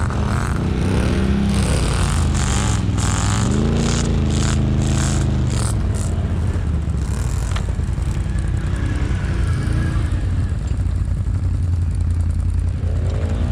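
ATV engine running, revving up and easing off a couple of times, with a run of clattering, scraping knocks in the first half.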